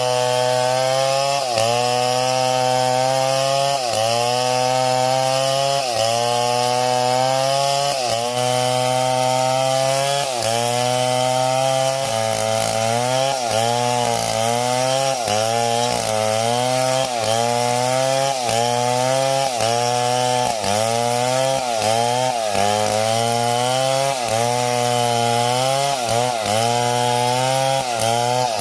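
Chainsaw running at high revs while cutting wood, its pitch dipping and recovering about every two seconds, then about once a second from midway on, as the chain bogs under load in the cut.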